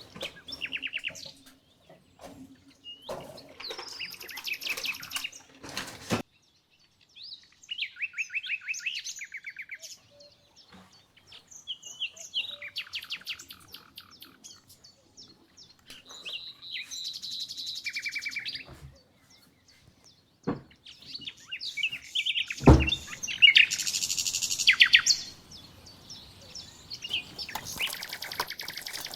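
Songbirds chirping, with a series of rapid trilled phrases. One sharp knock about three-quarters through.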